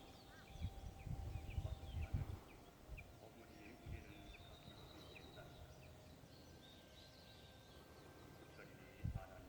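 Birds chirping and calling in a forest, a scatter of short high notes and whistles throughout. Low rumbles in the first two seconds and again near the end.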